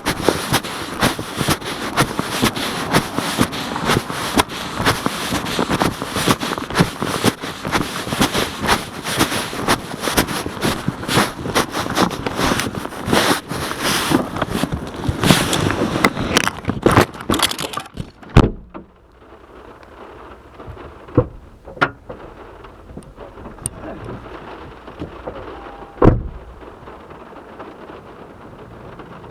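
Heavy rain pelting close by, a dense crackle of hard drops hitting a surface. About two-thirds of the way through it stops abruptly after a loud knock. What is left is a much quieter patter broken by a few single loud drop hits.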